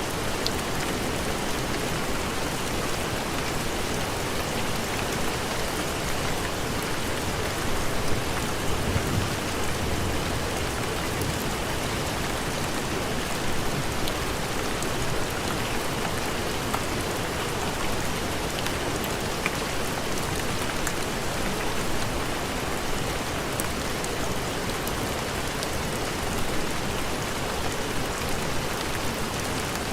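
Steady heavy rain falling, a dense even hiss, with a brief swell in low rumble about eight seconds in.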